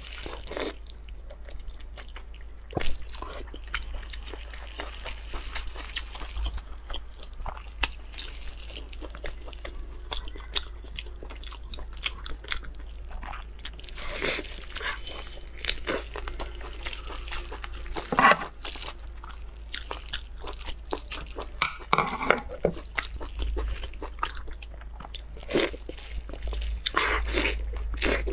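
Close-miked mouth sounds of eating Chinese blood sausage: wet biting and chewing through the casing, many short irregular smacks and clicks, with a steady low hum underneath.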